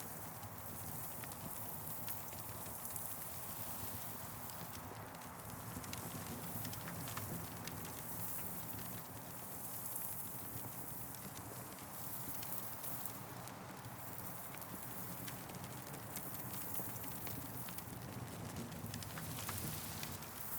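Campfire burning, the wood crackling with many small, irregular pops over a steady hiss.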